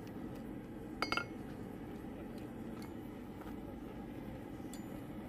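Steel blacksmith's tongs clinking against each other as they are handled, with a short cluster of ringing metallic clinks about a second in and a couple of faint ticks later, over a steady low rumble.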